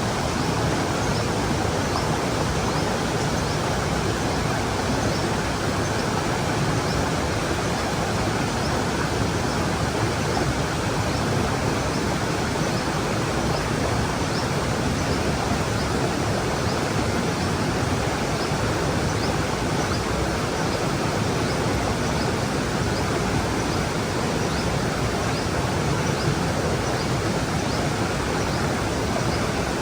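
Stream water rushing and splashing over rocks in a steady, unbroken flow.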